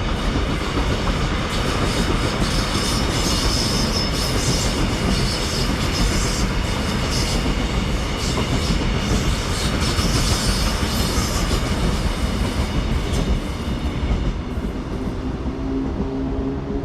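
A train running past on the track: a steady loud rumble with wheels clicking over the rails and a high squeal at times.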